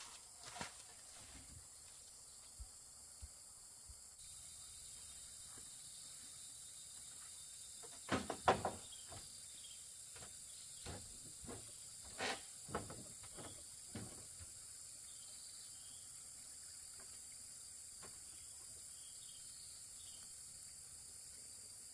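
Steady high insect drone, like cicadas or crickets, with a few short knocks and taps around the middle, the loudest a quick cluster about eight seconds in.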